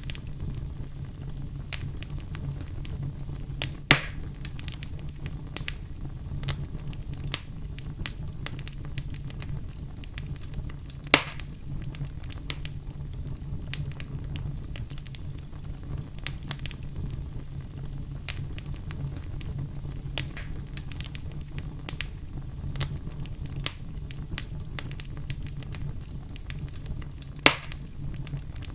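Wood fire in a fireplace crackling, with a steady low rumble of the flames under frequent small snaps and three louder pops.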